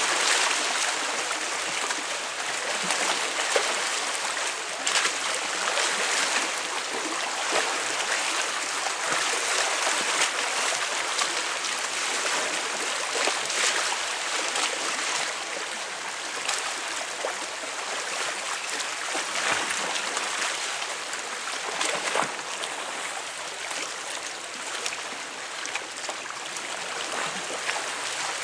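Waves breaking and splashing against concrete tetrapods on a breakwater: a continuous wash of surf that swells and eases, with many small sharp splashes and gurgles among the blocks.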